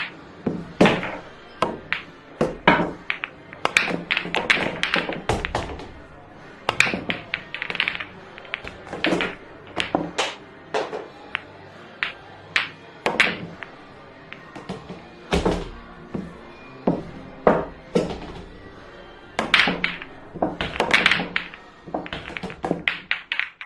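Billiard balls clacking: many sharp, irregular clicks, often two or three in quick succession, from cue strikes and ball-on-ball collisions.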